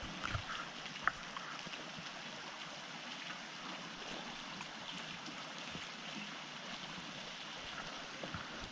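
Quiet water sounds around a kayak: a steady gentle hiss with a few small drips and clicks, the sharpest about a second in.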